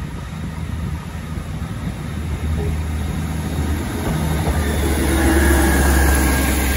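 GWR Class 158 diesel multiple unit approaching and running past close by: a low diesel engine drone that gets steadily louder as the front car reaches and passes, with the rumble of the wheels on the track.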